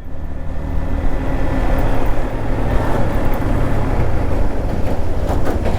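Modified Yamaha MT-15's 155 cc single-cylinder engine running at a steady highway speed, with wind rushing over the microphone.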